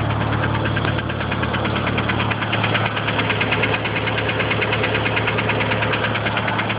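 DSM engine idling with a rapid, even ticking knock, which the owner cannot yet place as lifter tick or rod knock.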